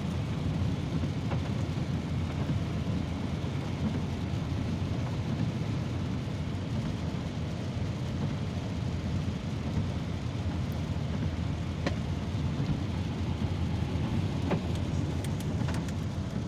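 Steady low road and engine noise heard inside a moving car's cabin, with a couple of faint ticks in the second half.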